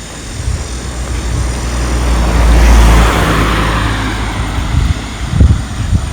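A road vehicle passes close by: its engine and tyre noise swells to a peak about halfway through and then fades away. Footsteps thud near the end.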